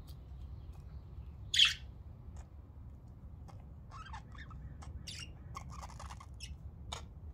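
Budgerigars giving short, scattered chirps and squawks, one louder call about one and a half seconds in and a busier run of calls in the second half, over a low steady background rumble.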